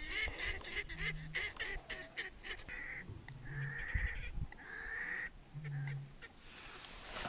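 Wild waterbirds calling over the lake: a quick run of short, honking calls, then two longer drawn-out calls about three and five seconds in.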